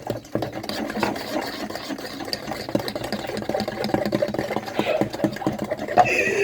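Electric kitchen mixer running steadily in a bowl of cake batter, its small motor giving a fast, even rattle.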